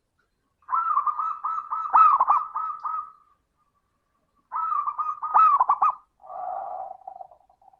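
Zebra dove (perkutut) cooing: two phrases of quick, rolling coo notes repeated several times, followed near the end by a lower, softer coo.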